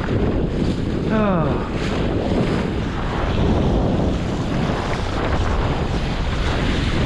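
Wind buffeting the microphone and water rushing along the hull of a small sailing dinghy under way. About a second in, a brief squeal glides downward in pitch.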